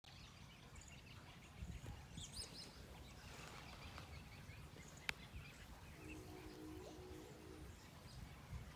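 Faint birds chirping over a quiet low rumble, with a single sharp click about five seconds in and a brief steady hum of a few tones between six and seven and a half seconds.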